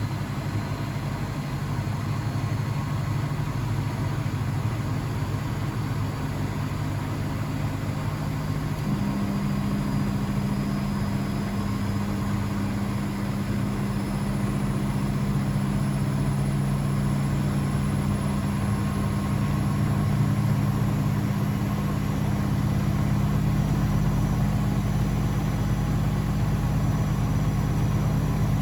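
Blomberg WAF 7442 SL washing machine running: a steady low motor hum that slowly grows louder, with a faint high whine gradually rising in pitch and a deeper tone joining about nine seconds in.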